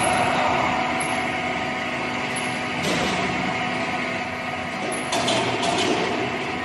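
Heavy industrial machinery running with a steady hum that holds a few constant tones, and metallic rattling about three seconds in and again around five seconds.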